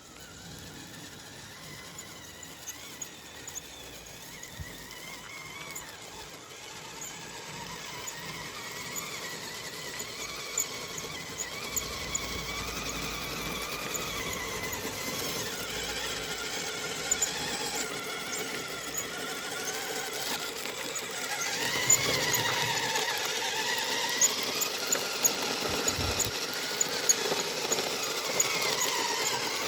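Kyosho Blizzard 2.0 RC snowcat driving: its electric drive whines, the pitch rising and falling with speed, with light ticking over it. It gets louder about two-thirds of the way through.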